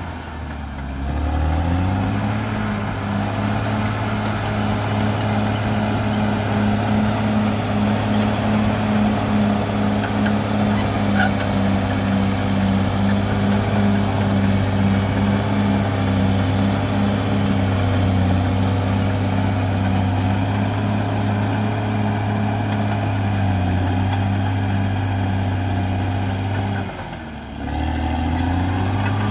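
CAT D6R XL bulldozer's diesel engine running steadily under load, with a thin high whine above it. Its revs drop about a second in and again near the end, each time picking back up within a second or so.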